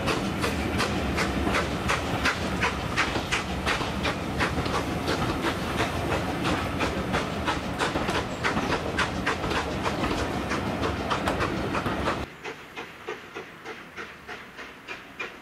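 Railway carriages rolling past at close range, their wheels clicking over rail joints about four times a second over a steady rumble. About twelve seconds in it cuts to a much quieter, more distant steam-hauled train pulling away, with faint rhythmic beats.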